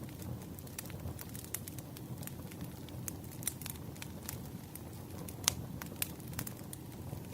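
Campfire crackling: irregular snaps and pops over a low steady rumble of burning wood, with one sharper pop about five and a half seconds in.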